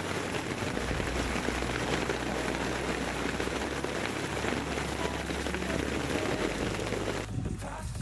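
Heavy rain falling on a surface, a dense steady hiss that cuts off abruptly near the end.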